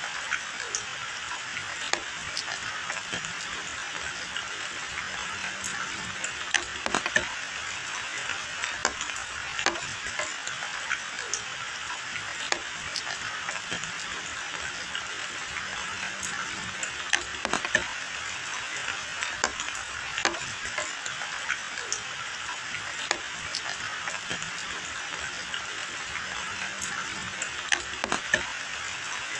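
Steady rain falling on a wet paved lane and dense hedge leaves: a constant hiss with many sharp drop taps scattered through it.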